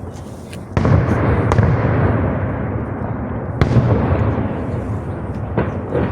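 Fireworks exploding: two loud booms about three seconds apart, each rolling on in a long echo, then a quick run of smaller pops near the end.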